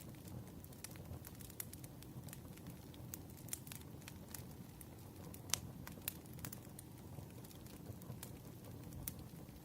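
Wood fire crackling: irregular sharp pops over a low steady rumble, with one louder pop about five and a half seconds in.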